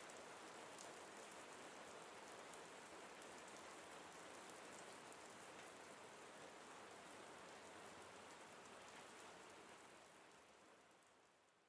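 Faint steady rain with scattered small drop ticks, fading out near the end.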